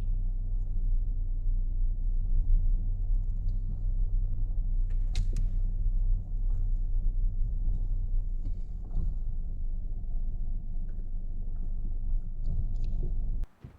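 A vehicle engine running steadily with a low rumble, with a few brief clicks and rattles over it; it stops abruptly near the end.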